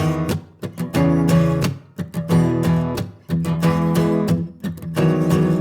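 Acoustic guitar strumming chords with no singing, in phrases about a second and a half long with short breaks between them.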